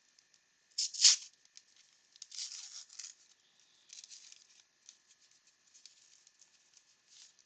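A 1989 Upper Deck baseball card pack being torn open with one sharp rip about a second in, then the wrapper crinkling and the cards sliding and ticking against each other as they are handled.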